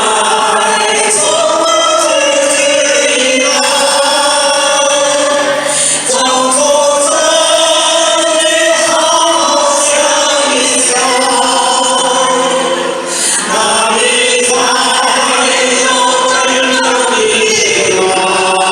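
Many voices singing a hymn together in a church service, in long held notes.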